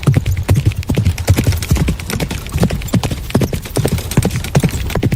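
Horse hooves clip-clopping in a quick, uneven run of sharp knocks, several a second.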